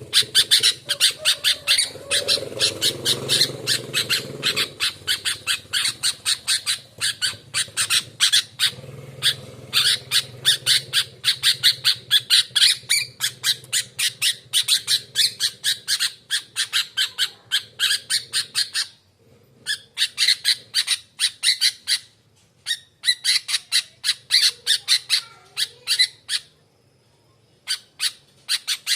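Sooty-headed bulbul (kutilang) chattering in fast runs of short, harsh notes, several a second. The runs break off briefly three times in the second half.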